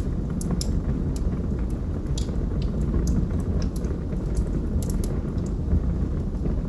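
Wood fire in a fireplace crackling: many irregular sharp pops and snaps over a steady low rumble of the burning fire.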